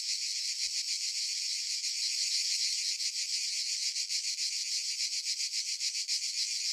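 A steady, high chorus of chirring insects with a fast, even pulse.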